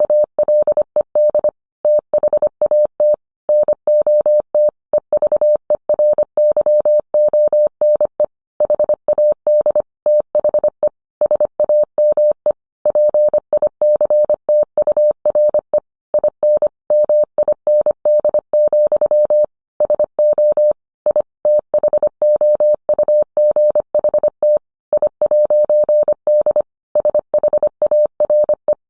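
Morse code sent as a single mid-pitched tone keyed on and off in quick dots and dashes, with short gaps between characters and words.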